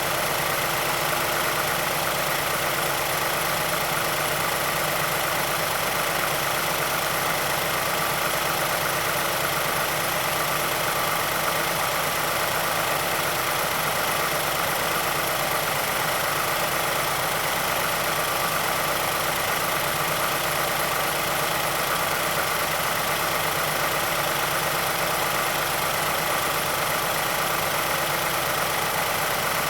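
2006 MazdaSpeed6's 2.3 L turbocharged direct-injection four-cylinder engine idling steadily, some minutes after a cold start. It is running with the ticking and rattle of a suspected worn VVT actuator or stretched timing chain under Mazda's SSP-87.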